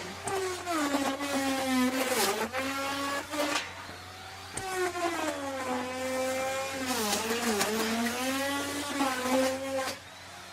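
Electric wood router cutting into wood. The motor's whine sags in pitch as the bit bites under load and climbs back between passes, with bursts of cutting noise. The sound drops off shortly before the end.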